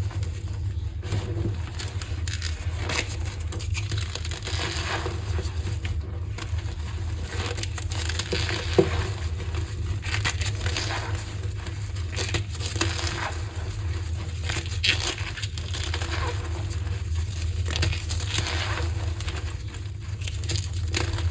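Green gym chalk crushed by hand, a dense, irregular run of crumbly crunches with one sharper snap about nine seconds in, over a steady low hum.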